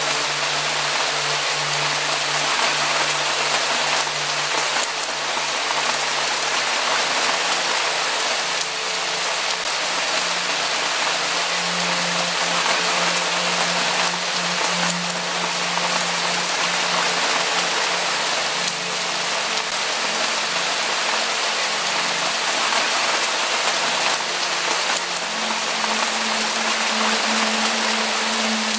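Steady rain falling, a dense even hiss with no let-up. Low steady tones sit beneath it and shift in pitch about twelve seconds in and again near the end.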